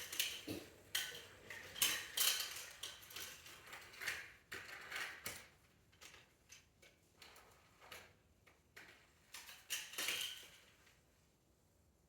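Small hard objects clattering and knocking together in an irregular run of clicks and rattles, which dies away about eleven seconds in.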